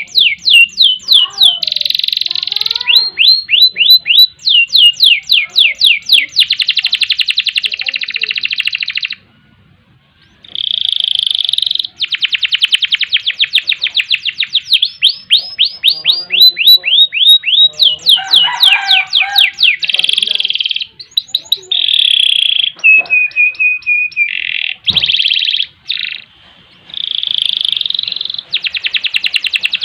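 Domestic canary singing a long, loud song of rapid rolls and trills: fast runs of high downward-sweeping notes and buzzy held passages, pausing briefly about nine seconds in. A single soft knock sounds near the end.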